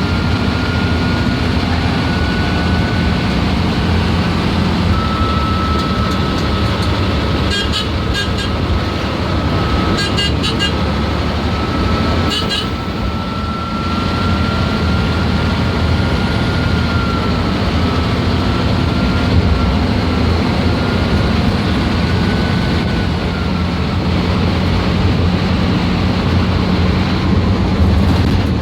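MSRTC bus's diesel engine running on the road with a steady high turbocharger whistle that wavers slightly in pitch over a low engine rumble. Three short bursts of rapid pulsing come about eight, ten and twelve seconds in.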